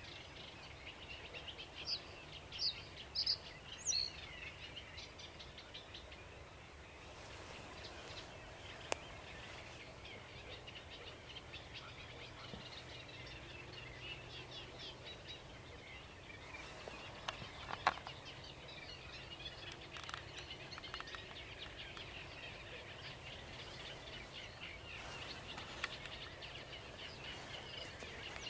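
Sedge warbler singing: a long, continuous run of rapid notes. Another bird gives a few louder separate notes in the first few seconds.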